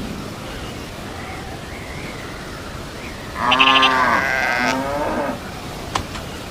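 A bleating animal call, one loud wavering call about three and a half seconds in, then a short second one.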